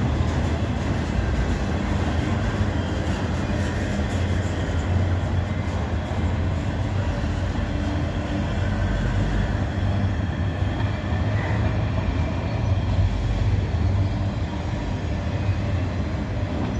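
A slow-moving freight train's cars rolling past, with a steady low noise of wheels on rail.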